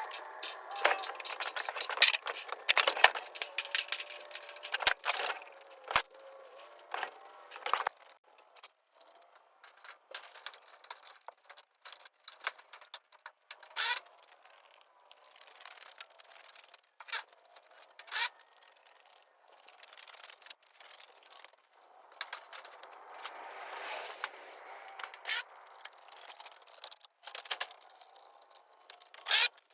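Sped-up work sounds from a seamless aluminium gutter installation: a quick, uneven run of clicks, knocks and scrapes, busiest in the first eight seconds.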